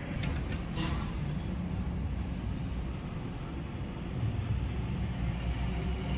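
A few light metallic clinks in the first second as the timing chain is handled and seated on the camshaft sprockets, over a steady low rumble.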